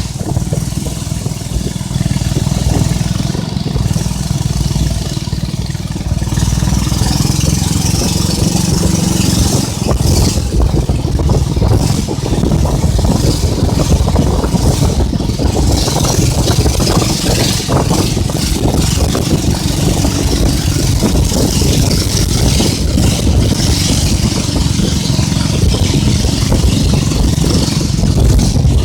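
Boat engine running steadily while under way, a continuous low drone with a steady hiss over it.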